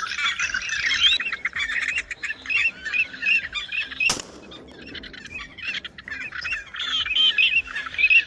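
A flock of small birds chirping densely and continuously, with one sharp snap about four seconds in.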